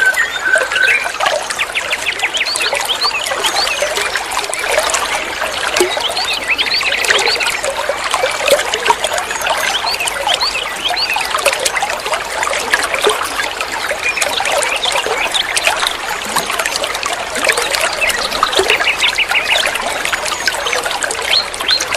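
Water trickling and gurgling steadily, with small birds chirping and giving quick trills over it throughout.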